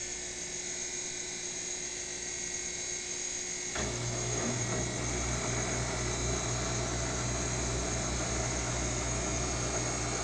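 Washing machine motor running with a steady whine; about four seconds in, a louder low whirring hum starts suddenly and holds, as the drum begins to turn faster.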